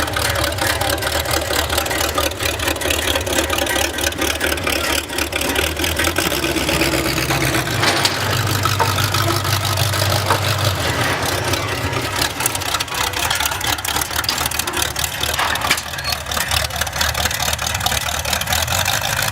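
Rat rod truck's engine running loudly with a rapid, even exhaust beat, its pitch shifting up and down a few times as it drives.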